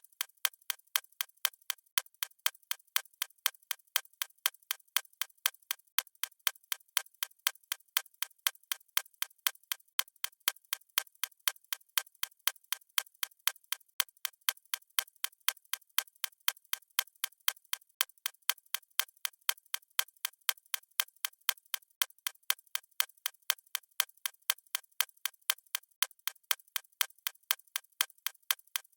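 Clock ticking with steady, evenly spaced, crisp ticks.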